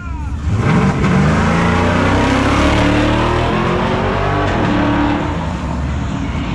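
Drag-racing truck engine launching and accelerating hard on a nitrous run. The pitch climbs steeply for a couple of seconds, holds, then falls away and fades from about four and a half seconds in as the truck pulls away.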